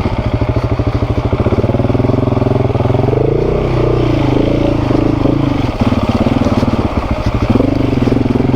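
Dirt-bike engine running at low revs with a steady pulsing beat, its note rising and falling a few times in the middle as the throttle is worked.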